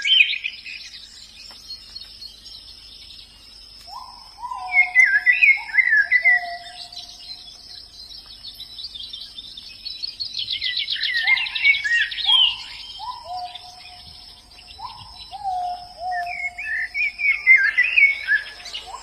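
White-eyes (pleci) singing in bouts of fast, high twittering and rapid trills, about four seconds in, again around ten to thirteen seconds, and near the end. Lower clear whistles that slide down come in short series alongside the twittering, over a steady high insect drone.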